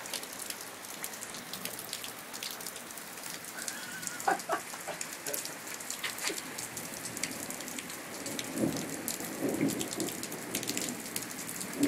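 Rain falling steadily, with many sharp drips ticking close by. A lower swell of sound rises and fades between about eight and ten seconds in.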